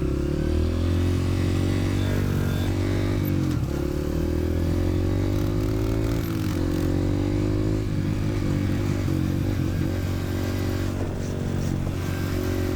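Dirt bike engine running as it is ridden, its pitch climbing and then dropping back sharply twice in the first half, then holding steadier.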